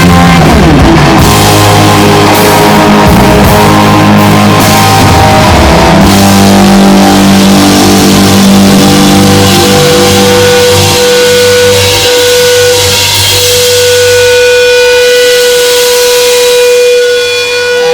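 Live rock band playing an instrumental passage on electric guitar and drums. A single note is held steady through the last several seconds.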